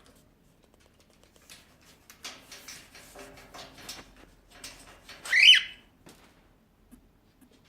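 Quaker parrot (monk parakeet) chattering softly under its breath for a couple of seconds, then giving one loud, short, falling whistled squawk about five seconds in.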